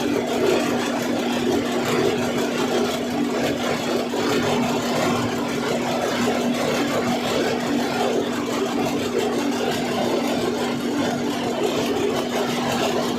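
Cummins NTA 855 inline-six turbocharged diesel engine of a rubber-tyred gantry crane, running steadily at constant speed under no load during a function test.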